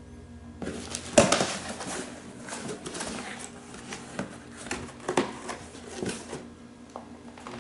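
Packaging rustling and crinkling, with irregular light clicks and knocks, as a gift parcel is handled and opened. It starts about half a second in, is loudest about a second in, and dies away near the end.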